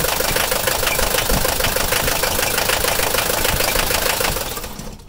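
1974 Mercedes-Benz 240D's four-cylinder diesel idling cold with a steady clatter, then switched off the standard way about four seconds in and running down to a stop within a second. Cold, the engine shuts off as it should; the owner's fault is that it will not stop.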